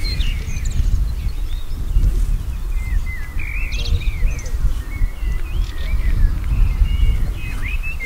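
Several small birds chirping and singing in short, quick calls, over a loud, uneven low rumble.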